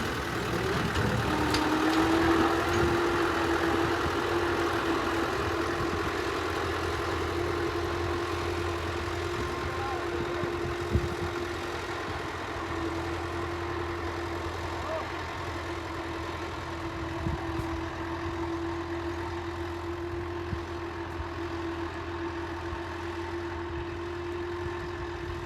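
Tractor engine running at a steady speed, with a constant low hum and a steady higher-pitched whine that comes in about a second in.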